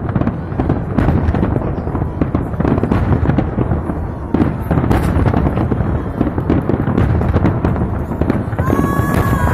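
Fireworks display going off: a dense, continuous barrage of bangs and crackles. A high whistling tone joins near the end.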